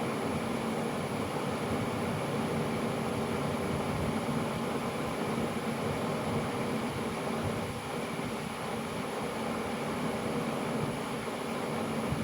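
Steady machine noise with a faint hum, unchanging throughout.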